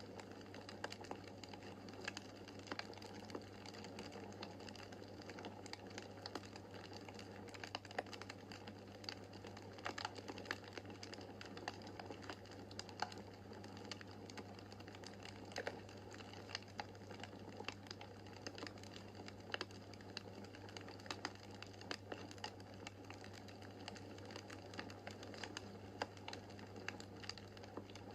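Wood fire in a fireplace crackling: irregular small pops and snaps, several a second, over a steady low hum.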